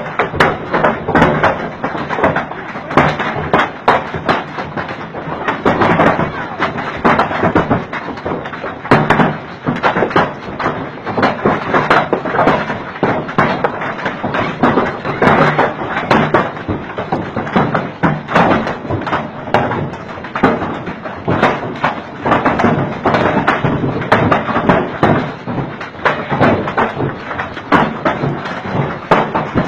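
Large hailstones pelting hard surfaces: a dense, irregular barrage of sharp thuds and taps.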